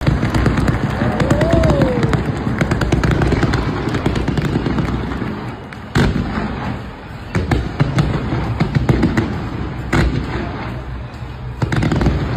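Stadium fireworks going off: dense rapid crackling, with sharper single bangs every second or two in the second half. A short whistle rises and falls about a second in.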